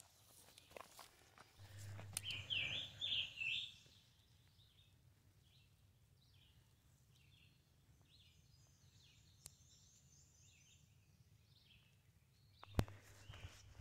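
A songbird singing in the woods: a burst of three or four quick slurred notes about two seconds in, then fainter repeated song phrases. A single sharp knock near the end.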